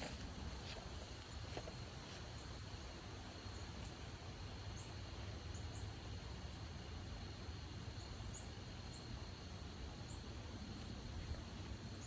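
Faint early-morning woodland ambience: a steady high insect drone, a few short high chirps scattered throughout, over a low rumble of wind.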